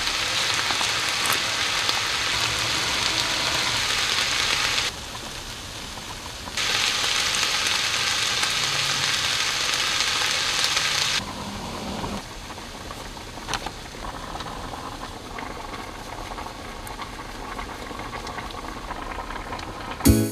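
Meat sizzling as it browns in a skillet, the steady hiss stopping and restarting abruptly twice, then going on more quietly with a few light clicks in the second half.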